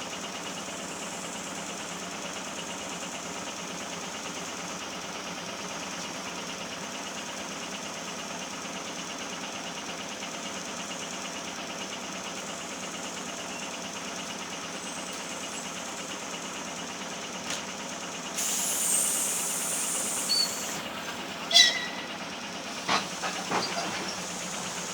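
ER2R electric multiple unit running with a steady rumble. About three quarters of the way in a loud hiss lasts a couple of seconds, then a sharp high-pitched squeal and a few knocks follow near the end.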